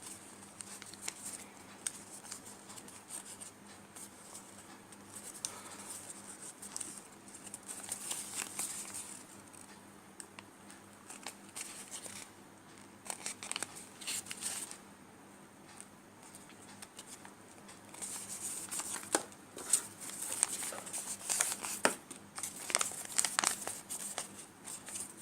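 Sheet of paper being folded and creased by hand into an origami crane: intermittent rustling and crinkling with small sharp ticks, busier and louder in the last several seconds.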